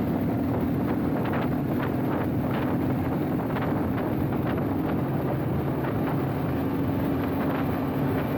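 Motorcycle engine running at a steady speed, one even tone, with wind buffeting the microphone.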